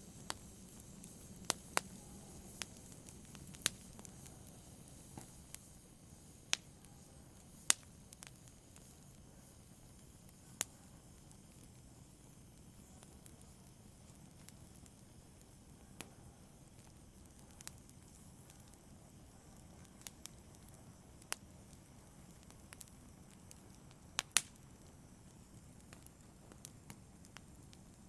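Wood fire burning in a fireplace: a low, steady hiss with sharp crackles and pops at irregular intervals, the loudest a quick double pop near the end.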